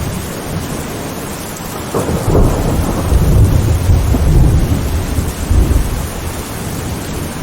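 Steady heavy rain with a roll of thunder that breaks in about two seconds in, rumbles low and loud for a few seconds, then fades back under the rain.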